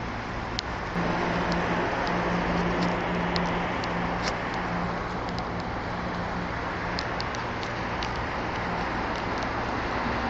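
Car driving, with steady road and tyre noise and a low engine hum that firms up about a second in. Scattered sharp ticks sound over it.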